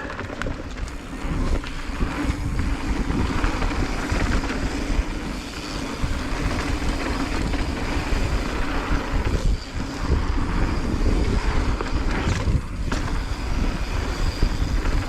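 Wind buffeting the microphone and tyres rolling over a dirt trail as a mountain bike descends at speed: a steady, dense rush with short dips.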